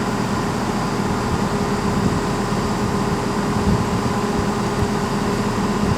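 Steady engine hum and rumble of trains standing at the station platforms, even throughout with no distinct events.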